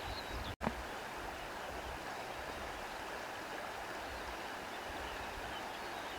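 Steady rushing of wind, with faint high bird chirps now and then. The sound drops out completely for an instant about half a second in.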